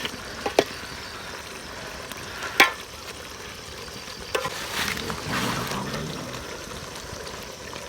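Food sizzling as it fries in hot oil in a cooking pot, with a few sharp clinks of a utensil against the pot. The loudest clink comes about two and a half seconds in.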